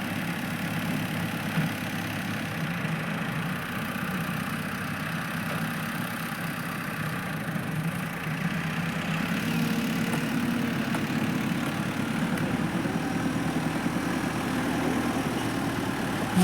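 Tractor engine idling steadily, a little louder from about halfway.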